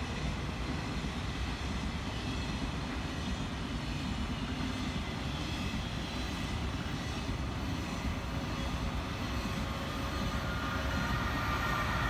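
Long electric passenger train passing at speed: a steady rushing of wheels on rail and air, with high ringing tones coming in near the end.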